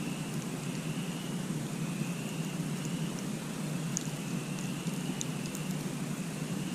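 Campfire burning with a steady low rumble and a few sharp crackling pops. A faint high call repeats about once a second.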